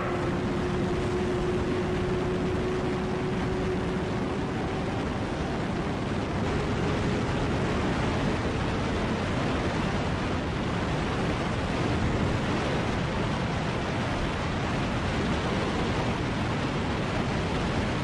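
Steady rush of wind over the microphone at high riding speed, with a faint tone slowly rising in pitch through the first half.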